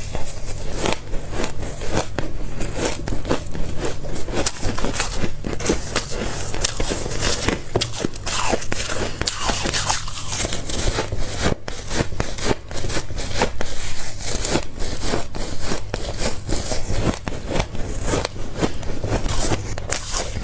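A person biting and chewing ice: a continuous run of crisp crunches and crackles.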